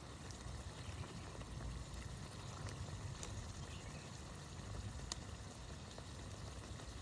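Wood fire crackling, with a few sharp pops, over a steady low rush.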